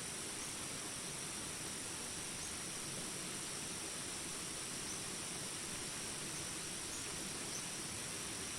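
Steady hiss of rain with a continuous high-pitched drone of jungle insects, and a few faint short chirps scattered through.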